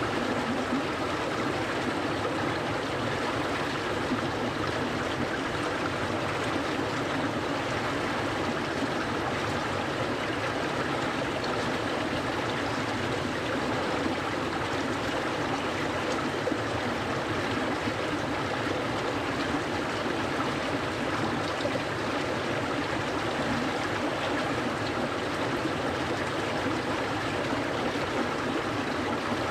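A clear mountain stream flowing steadily over stones, an even rush of water that does not change.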